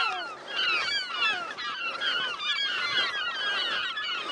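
Many gulls at their nesting colony calling together, a dense chorus of short overlapping cries.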